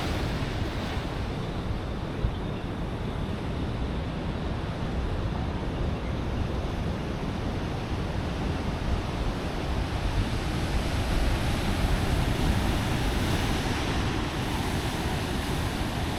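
Steady rush of ocean surf on a beach, mixed with wind buffeting the microphone.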